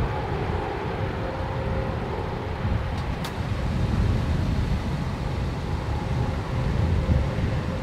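Vehicle engine idling: a steady low rumble with a faint steady hum, and one sharp click about three seconds in.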